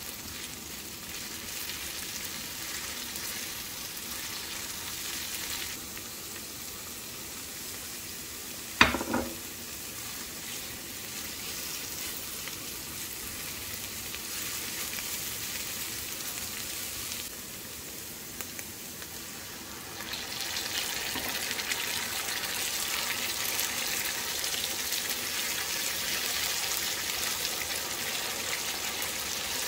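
Chopped onion and tomato paste frying in oil and butter, sizzling steadily while being stirred with a spatula. There is one sharp knock about nine seconds in, and the sizzling grows louder and brighter from about twenty seconds in.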